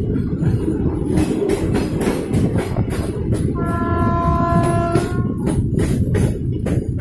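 Train running with a heavy low rumble and repeated clicks of wheels over rail joints. Midway, its horn sounds one steady note for about a second and a half.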